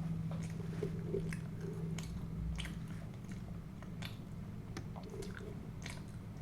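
Close-miked eating: a person chewing and biting food, with irregular small wet mouth clicks, over a steady low hum.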